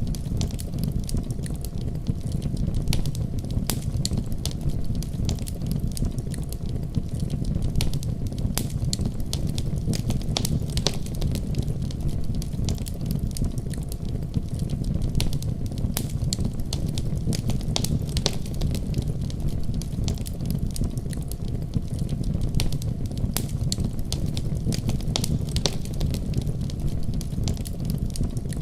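Wood fire crackling, with frequent sharp pops scattered irregularly, over a steady deep rumble of a heavy winter storm.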